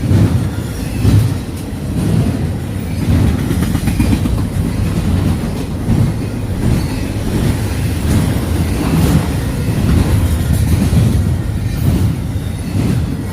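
Freight train of double-stack well cars passing close by at speed: a loud, continuous low rumble with the wheels clacking repeatedly over the rail joints.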